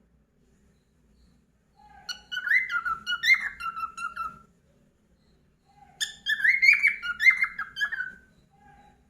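Cockatiel whistling in two short bursts of quick warbling notes, each lasting about two and a half seconds, with a pause between them and a single short low note near the end.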